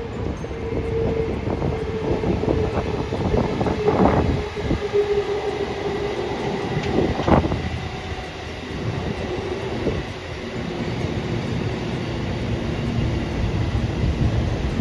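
A train running past, with a steady tone over the noise of the wheels and a string of clacks over the rail joints, two of them louder about four and seven seconds in.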